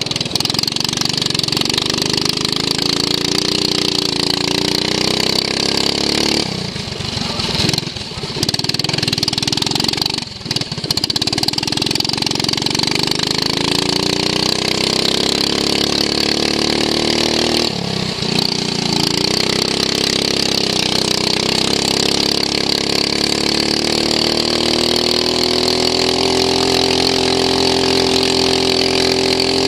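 Racing lawn mower engine heard from onboard at full race pace. It revs up along the straights and briefly drops off three times, around 7, 10 and 18 seconds in, as the driver lifts for corners. In the last part it climbs steadily to a high, held note.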